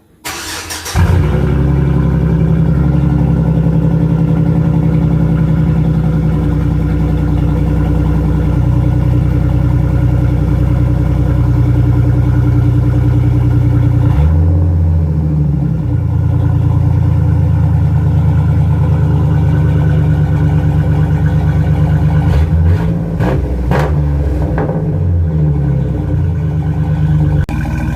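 Truck's 4.3 engine cold-started: it catches about a second in and settles into a steady idle through a somewhat loud exhaust, with a brief change in its note about halfway and a few short sharp sounds near the end.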